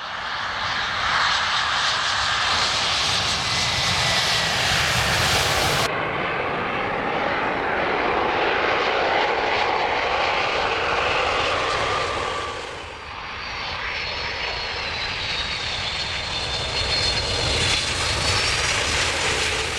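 Loud roar of airplane engines as aircraft pass close by a runway, cut between separate planes about six and thirteen seconds in. The last plane carries a high engine whine that bends slightly in pitch over its roar.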